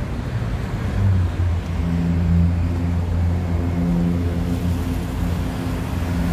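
A motor vehicle engine running nearby with a steady low hum, firming up about a second in, over street traffic noise.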